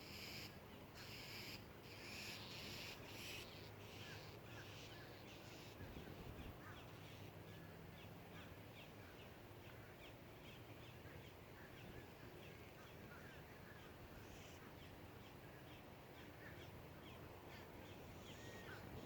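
Crows cawing, about six harsh caws in quick succession over the first few seconds. After that comes a long run of faint, short bird calls.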